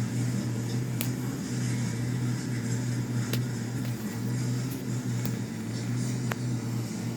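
Steady low rumble of a freight train moving slowly down a street, heard through a TV speaker from a livestream, with three faint clicks.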